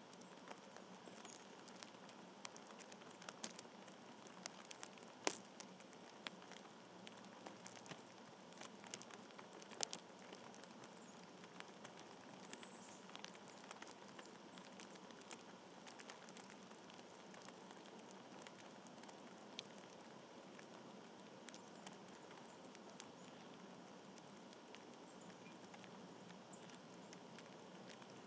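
Faint outdoor ambience: a steady low hiss with scattered small ticks and taps, the sharpest about five seconds in and again near ten seconds.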